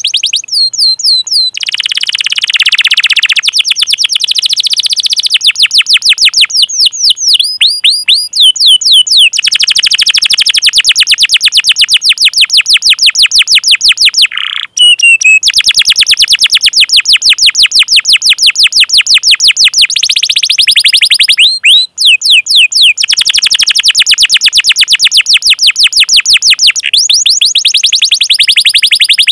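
Canary singing: long, fast rolling trills of repeated high notes, broken now and then by short sweeping chirps, with a brief break about halfway through.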